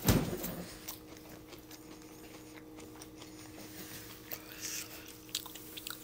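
Chewing a crunchy fried onion ring: soft, scattered crunching clicks, after a loud thump right at the start.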